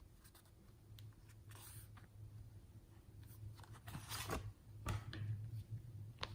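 Faint handling sounds of small objects being worked by hand: scattered clicks and two short scraping rustles, the second about four seconds in and louder, over a low steady hum.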